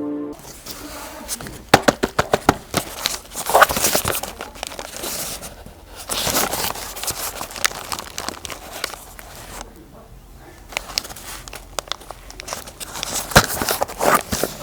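Packaging being handled and unwrapped: crinkling and tearing in irregular rustles, with many sharp clicks and taps.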